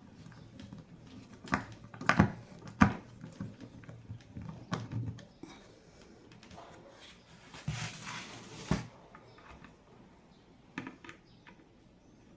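A few sharp knocks and clicks, loudest about two to three seconds in, with a short scraping rustle around eight seconds in and a few light clicks near the end.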